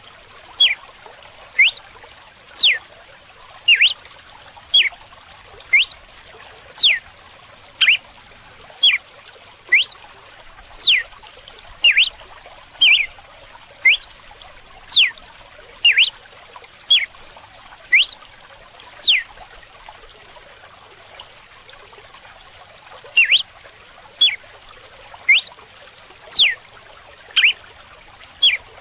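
Red-cowled cardinal (galo-de-campina) giving its whip-like song: sharp whistled notes sweeping steeply down in pitch, about one a second, with a pause of a few seconds past the middle. Under it runs the steady trickle of running water.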